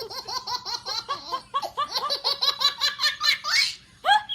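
A baby laughing hard: a long, rapid run of short high-pitched laughs that breaks off for a moment near the end before another burst of laughter starts.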